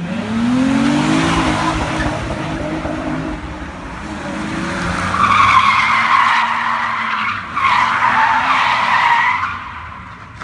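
A car engine revving up, then tyres squealing in two long screeches, about five and seven and a half seconds in, each wavering in pitch.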